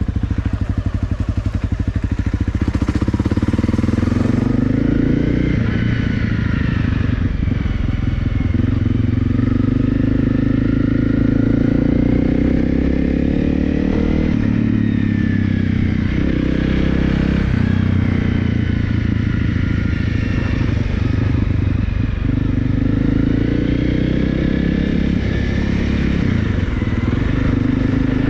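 Honda CRF250L's single-cylinder four-stroke engine running under way, its pitch rising and falling again and again with throttle and gear changes.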